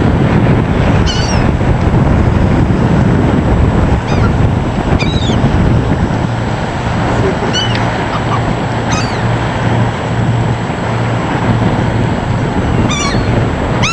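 Gulls giving short, arched cries every few seconds, several close together near the end, over a steady low rumble.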